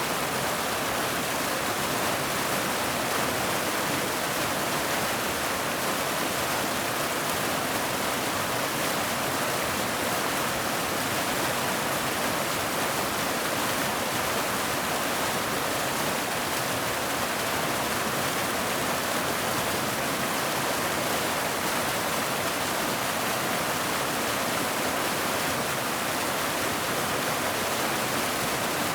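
Waterfall rushing steadily, an even roar of falling water with no change.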